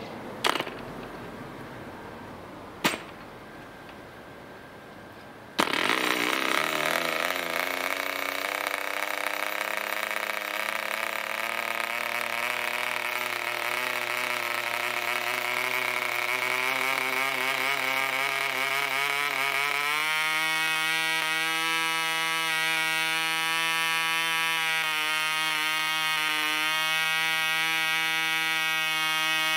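Allen-Mercury AM25 2.5cc model aircraft diesel engine swinging a 9x4 propeller: two sharp knocks, then the engine catches suddenly about five and a half seconds in and runs with a high-pitched buzz. Its speed climbs gradually, then steps up about two thirds of the way through and holds steady.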